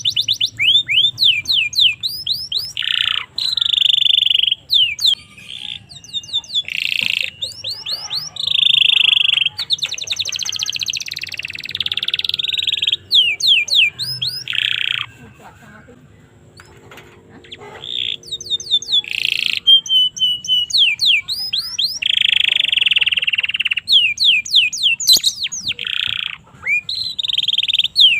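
Domestic canary singing: fast runs of repeated downward-sweeping whistled notes alternate with buzzy rolling trills. The song pauses for about two seconds a little past the middle, then starts again.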